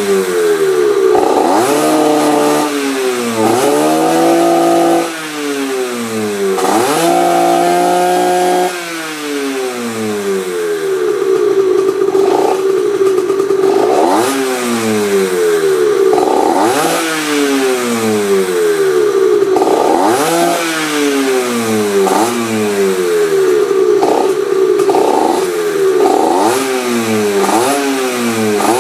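A 1994 Yamaha TZR50R's 50cc two-stroke single with an expansion-chamber exhaust, revved over and over in quick blips, each rising in pitch and falling back, about one a second. Twice in the first several seconds the revs are held high for a couple of seconds.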